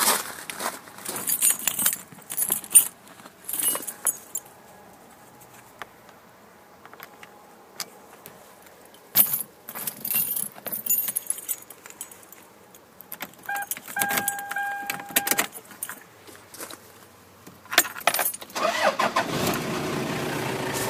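Car keys jangling and clicking in the ignition, with a steady electronic beep from the dashboard about two-thirds of the way in. Near the end the Toyota 3.0-litre turbo diesel cranks on an ultracapacitor starting pack, battery disconnected, and fires into a steady run.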